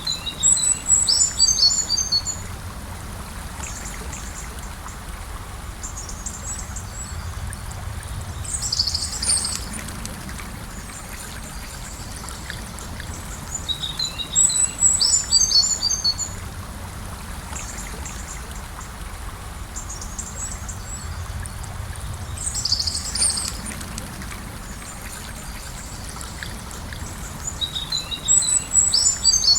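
Gentle river flowing steadily, with a songbird singing a short chirpy phrase near the start, about halfway and again near the end, and briefer calls in between.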